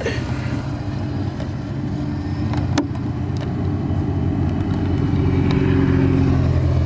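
A nearby car engine running steadily, growing louder from about four seconds in. There is a single sharp click near the middle.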